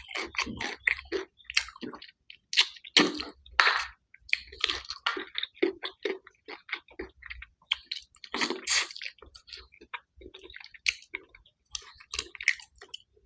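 Close-up mukbang eating sounds: milkfish head being chewed and sucked, wet smacking and squishing with occasional crunches, in short irregular bursts.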